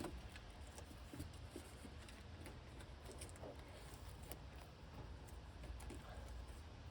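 Faint handling noises: scattered small clicks and scrapes of hands working plastic interior trim, over a low steady rumble.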